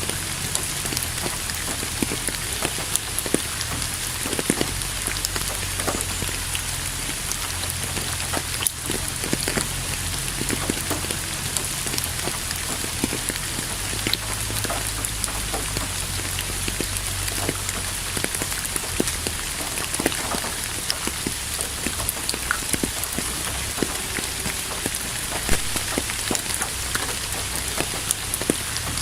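Steady rain: individual drops click sharply on a surface over a constant hiss, with a low rumble underneath.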